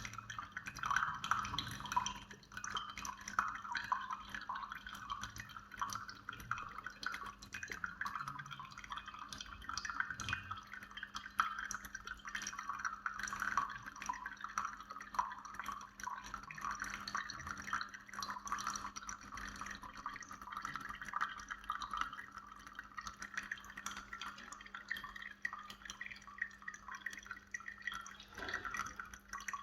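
Instant Solo single-serve coffee maker spitting and dripping hot water in an irregular crackle of small splutters over a steady low hum, the machine malfunctioning instead of brewing.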